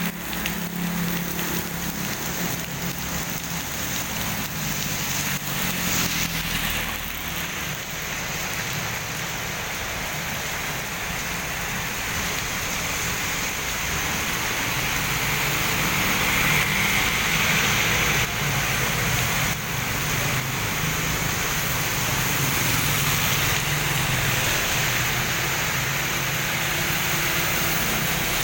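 Moderate to heavy tropical rain falling steadily, with a vehicle engine humming low underneath.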